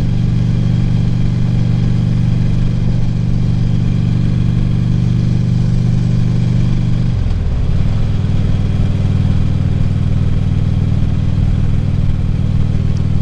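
Harley-Davidson V-twin motorcycle engine running steadily on the road; about halfway through its note dips briefly, then carries on steady.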